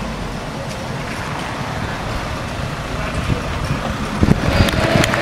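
Football crowd noise, a steady din that builds toward the end with a few sharp claps as the fans start up.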